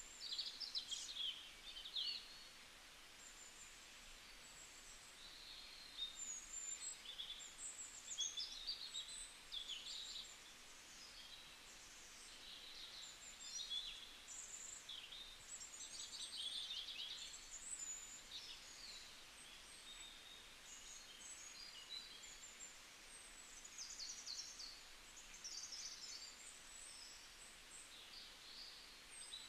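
Birds chirping and trilling, many short high calls overlapping throughout, over a faint hiss.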